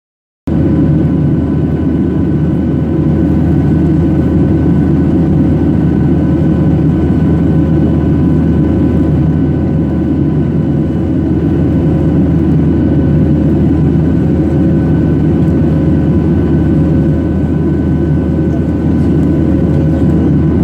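Steady jet engine noise inside the cabin of a Boeing 737-800 with CFM56-7B engines: a low drone with a few steady whining tones above it, cutting in abruptly about half a second in.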